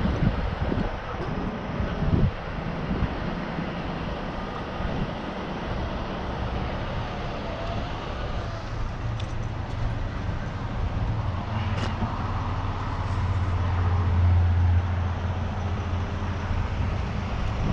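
A truck engine idling steadily with a low hum that swells a little in the second half, and a single sharp click past the middle.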